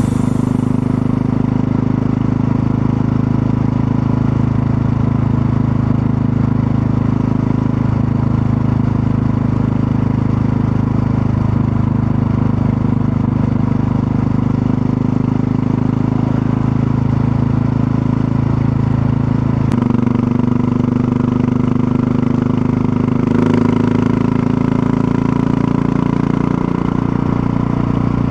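Supermoto motorcycle engine running with a steady note. The pitch steps slightly about twenty seconds in and shifts again a few seconds later.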